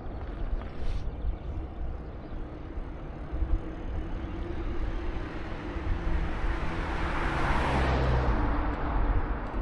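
Road traffic heard from a moving bike, with a steady low rumble underneath; a vehicle's noise swells over several seconds, is loudest about three-quarters of the way through, then drops off quickly as it passes.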